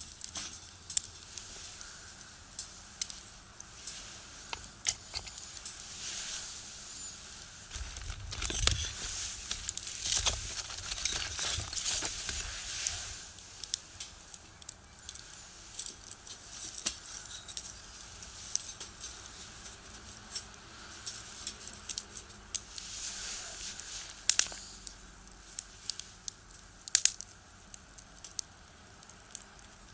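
Wood fire crackling in a small box stove: sharp snaps and pops scattered throughout over a soft hiss. A broader rushing swell rises and fades about eight to thirteen seconds in, with a weaker one later.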